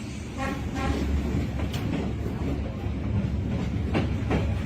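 A train running with a steady low rumble and some wheel clatter. A short horn toot sounds about half a second in.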